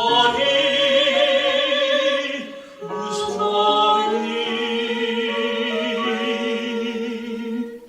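Closing bars of a sung song: two long held chords, sung with vibrato over the band's accompaniment, the second coming in about three seconds in, then the music stops at the end.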